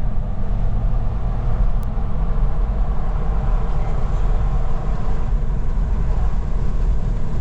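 Steady road and engine rumble inside a moving car's cabin, with a dense low drone from tyres and engine.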